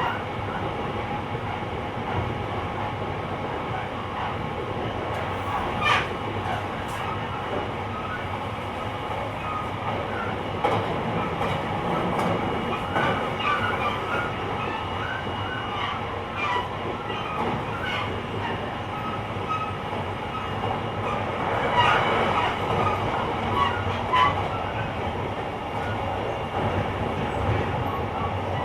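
JR Kyushu 885 series electric train's motor car running at speed, heard from the vestibule deck: a steady rumble of wheels on rail with faint steady tones, scattered rattles and small squeaks. A few louder knocks come about 6 s in and again near 22 and 24 s.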